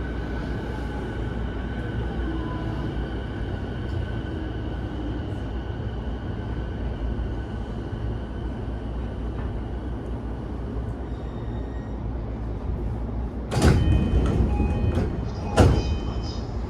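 JR E233-5000 series electric train standing at a station: a steady low rumble with faint tones that fade away. About thirteen and a half seconds in, the doors open with a loud rush of noise and short chime-like tones, followed by a sharp knock about two seconds later.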